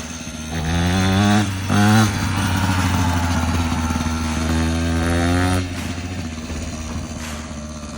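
Mini motocross bike engine accelerating: its pitch climbs about half a second in, dips briefly, climbs again and holds high for several seconds. Near the end it eases off to a lower, quieter steady drone.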